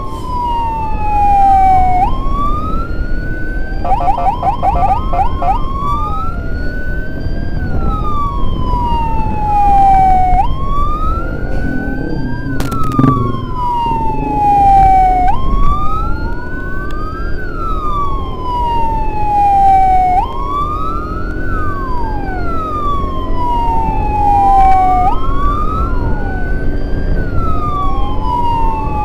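Emergency sirens of an ambulance escort wailing over engine and traffic rumble: one siren falls in pitch again and again about every two and a half seconds while a second sweeps upward across it. About four seconds in, a fast warble sounds briefly, and a sharp knock comes about halfway through.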